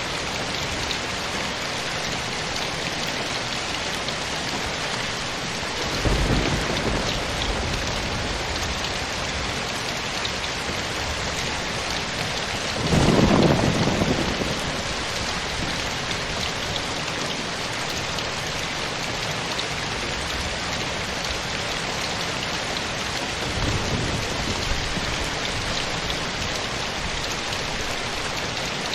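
Steady rainfall, an even hiss of drops on surfaces, with thunder rumbling three times: briefly about six seconds in, loudest and longest about halfway through, and faintly near the end.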